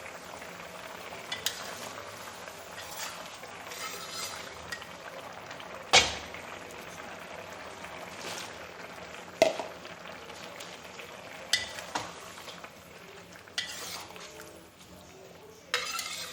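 A steady sizzling hiss, like food frying, with a utensil stirring and knocking sharply against a pan or dish about six times.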